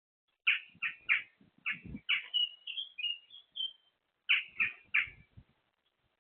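Garden bird calling: sharp chirps, then a quick run of short whistled notes in the middle, then three more chirps. Faint low thumps run underneath.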